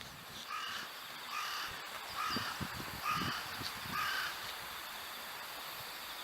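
A crow cawing five times, about one caw a second.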